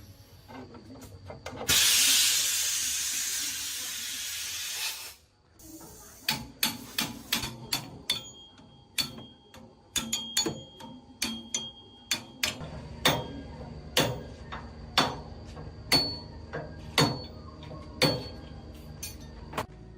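A loud hiss of escaping air or spray lasting about three seconds and then cutting off, followed by a run of sharp knocks and taps from hand tools on metal, settling into roughly one knock a second in the second half.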